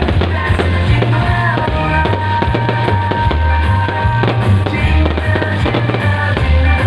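Fireworks popping and crackling over loud music with a pulsing bass beat and a held note in its middle.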